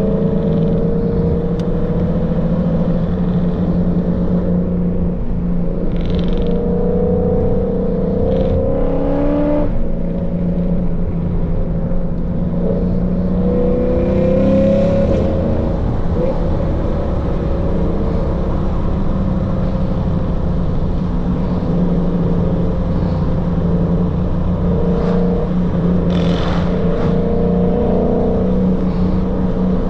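Lexus RC F's V8 engine and exhaust running steadily while driving, its note rising and falling gently with throttle, over tyre and road rumble.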